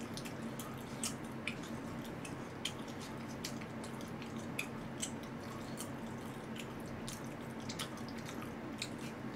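Wet mouth clicks and smacks from chewing braised pig's trotters (jokbal), short and irregular, over a steady low hum.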